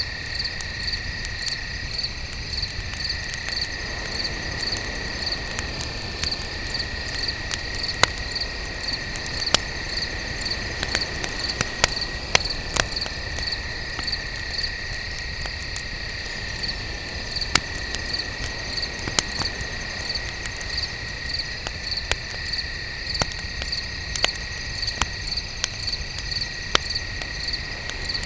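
Wood fire crackling, with irregular sharp pops, over a steady chorus of night crickets: one chirping in a regular high pulse and another trilling continuously a little lower.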